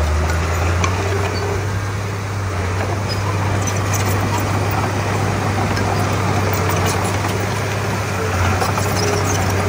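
Bulldozer diesel engine running steadily, a low, even hum with small rises and dips in level.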